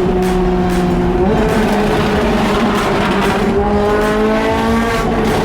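Car engine running under way at speed over road noise. Its pitch steps up about a second in, then climbs steadily as the car accelerates, easing slightly near the end.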